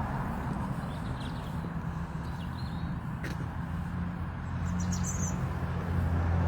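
A few short bird chirps over a steady low engine hum of vehicle traffic, which grows louder toward the end.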